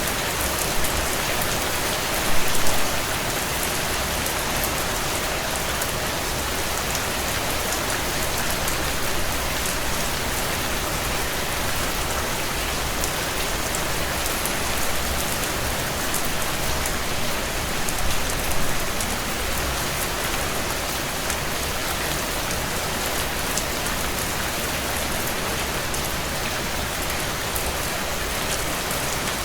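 Heavy rain falling steadily on a window as a dense, even hiss, with light crackles from a wood fire. A couple of brief louder swells come a few seconds in and again past the middle.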